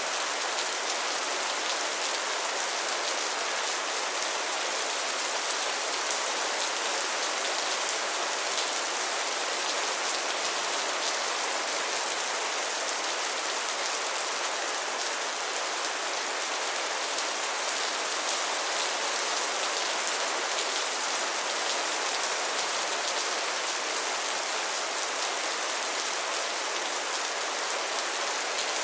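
Steady rain falling, a constant hiss of drops with fine patter, unchanging throughout.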